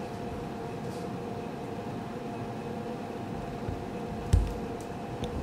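Steady room hum with a faint constant tone, and a single sharp thump about four seconds in.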